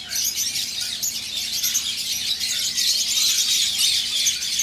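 A large flock of lovebirds chattering, a dense unbroken mass of high, overlapping chirps and squeaks.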